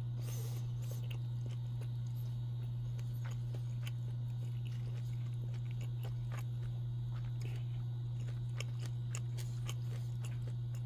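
A person chewing a mouthful of grilled smoked beef sausage, with faint scattered wet mouth clicks, over a steady low hum.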